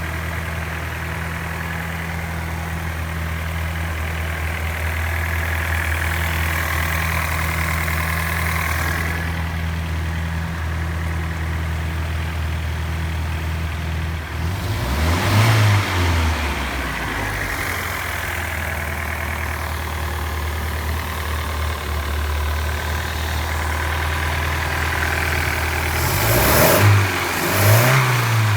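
MerCruiser 140 hp 3.0 L four-cylinder marine engine idling steadily. Its throttle is blipped once about halfway through and twice near the end, the pitch rising and falling back each time.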